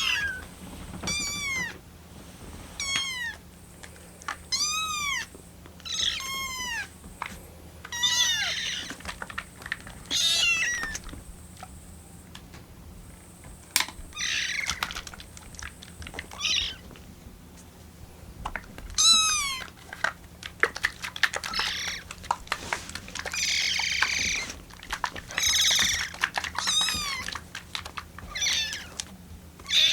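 Very young kittens (about 25 days old) mewing over and over in short, high-pitched cries, some with a wavering, bird-like vibrato. They are hungry kittens crying for their milk.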